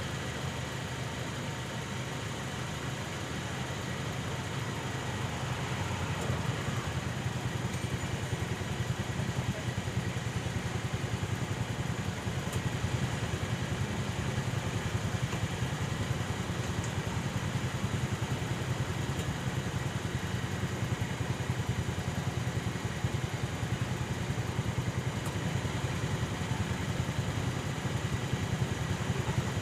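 An engine running steadily, growing louder over the first several seconds and then holding at an even level.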